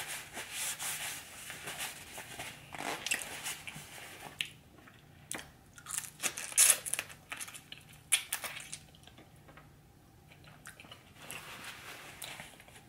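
Close-miked eating: a person chewing and biting food, with wet smacks and irregular crunches, the loudest about six and a half seconds in.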